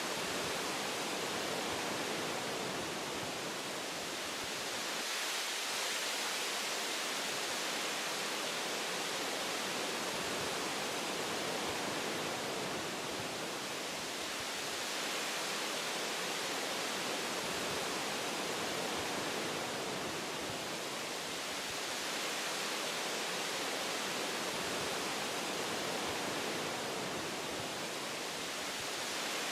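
Wind blowing through forest tree branches, a steady rushing noise that swells and eases gently every several seconds.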